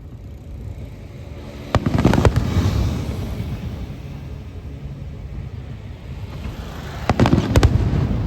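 Aerial fireworks shells bursting: a quick cluster of sharp bangs about two seconds in that rolls off in a long rumble, and another cluster of bangs near the end.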